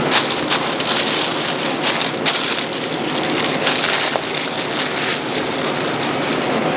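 Sandwich bread sizzling on a hot grill: a steady crackling hiss.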